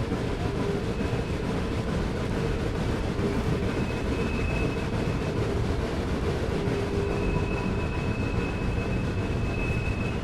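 Excursion train running, a steady rumble and clatter of the cars on the track, with a faint high whine coming and going from about four seconds in.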